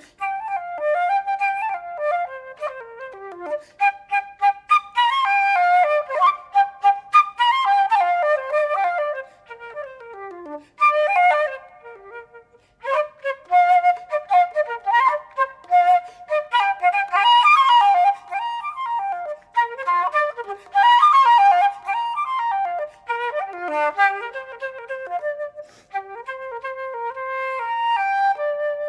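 Unaccompanied flute playing fast runs and wide leaps, with short breaks between phrases about twelve seconds in and near the end, closing on a held note.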